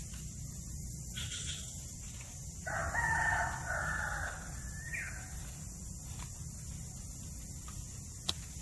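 A rooster crowing once, a single call of about two seconds that ends with a short upward turn, over a steady low background hum.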